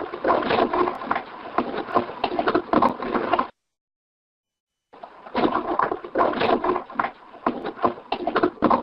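Recorded footsteps crunching on gravel, played back as a noise bed for an EVP test, in two stretches with a second and a half of dead silence between them.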